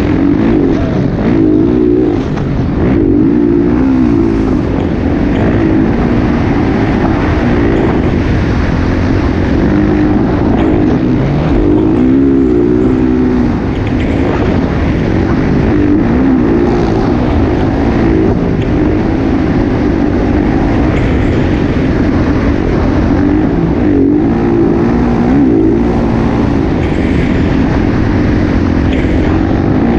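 Motocross motorcycle engines running hard, their pitch rising and falling as the throttle opens and closes, without a break.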